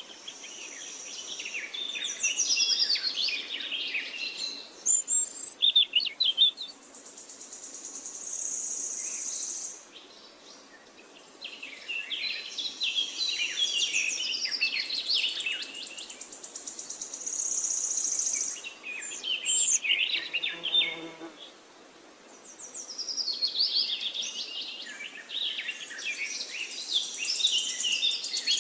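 Several birds chirping and singing in overlapping bouts that swell and fade, with short lulls between them. An insect's high, rapid buzzing trill comes and goes above the birds.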